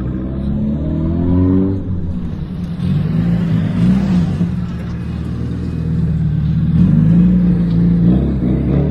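Car engine revving up, its pitch climbing over the first two seconds, then running at a fairly steady throttle as it pulls away.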